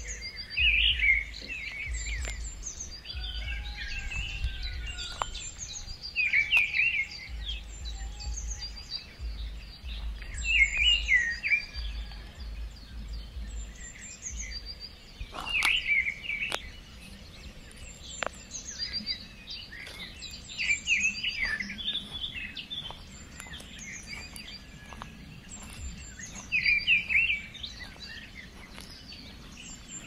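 Forest birds calling: short chirping phrases recur every few seconds, with thin, high-pitched notes in between.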